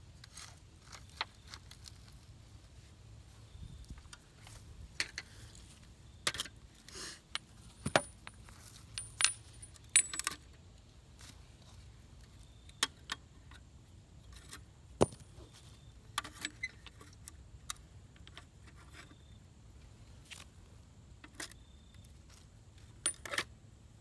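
Irregular sharp metallic clinks and clicks of small metal parts being handled, the loudest in a cluster about a third of the way in and one sharp clink near the middle.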